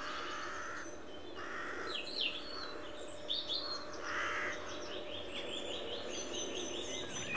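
Wild birds calling together. Three longer harsh calls come near the start, about a second and a half in, and about four seconds in, over a run of short, higher chirps and whistles.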